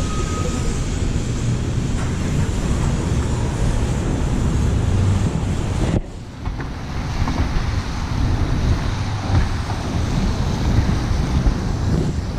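Steady rushing noise of wind on the microphone over street noise. It drops off suddenly about halfway through, then builds back up.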